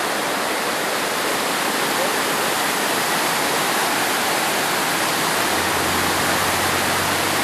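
Steady rush of fast-flowing water, an even hiss with no breaks; a low hum joins about three-quarters of the way in.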